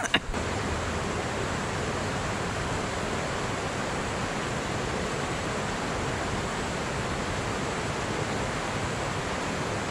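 Steady rushing of a fast-flowing shallow river, an even hiss of water with no breaks.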